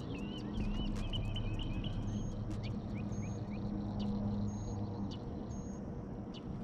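Birds chirping in short rising and falling calls, busiest in the first second or so, over a steady low drone.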